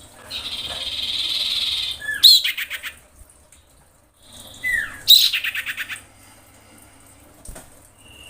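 Female common iora (cipoh) calling a male: a drawn-out harsh rasp, then a short slurred whistle and a fast rattling chatter. About three seconds later comes a falling whistle and another rattle. These are the calls of a female in breeding condition calling for a mate.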